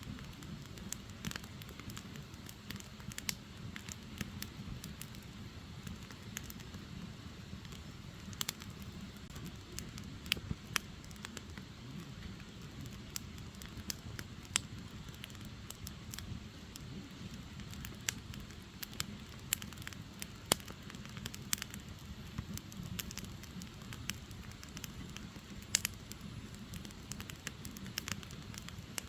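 Wood fire burning steadily: a low rumble of flames with irregular crackles and sharp pops from the burning firewood.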